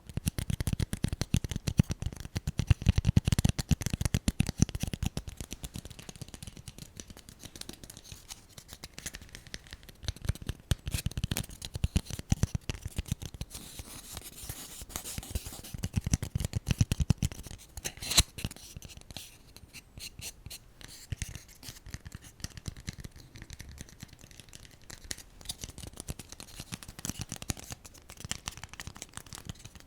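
Close-miked ASMR tapping and scratching on small objects, with dense rapid clicks and scratches starting suddenly. They come in louder clusters with quieter stretches between, with one sharper click about eighteen seconds in.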